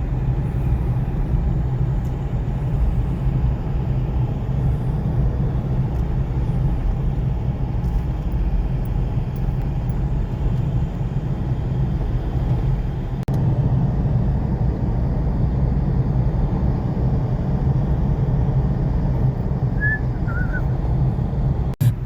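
Steady engine and road rumble heard from inside a ute's cabin while driving. Two short, high chirps come near the end.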